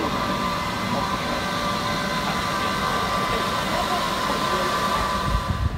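Train in the station, several steady high whining tones over a dense rumble; the sound changes abruptly right at the end.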